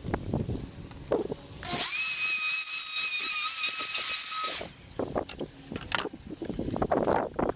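Hand-held wood router switched on, spinning up to a steady high-pitched whine for about three seconds, then switched off and winding down. Short knocks and clicks of handling come before and after it.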